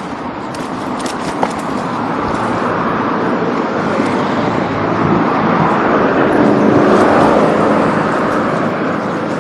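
A vehicle passing: a steady rushing noise that swells to a peak about seven seconds in, then eases.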